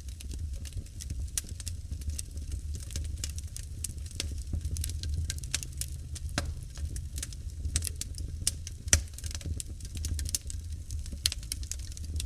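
Wood fire burning in a fireplace, crackling and popping irregularly over a steady low rumble, with one sharper pop about nine seconds in.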